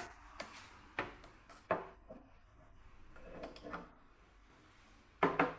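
A few light knocks and a short rubbing sound of objects being handled, with a slightly louder knock near the end. No steam hiss.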